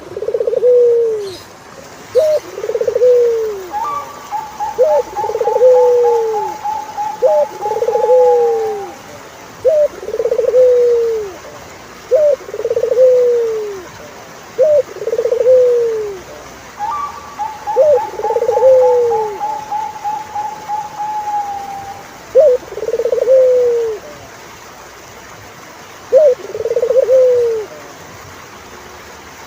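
Turtle doves cooing: a short note then a longer falling coo, over and over about every two seconds. A higher, fast rattling trill runs for a few seconds twice, about four seconds in and again past halfway.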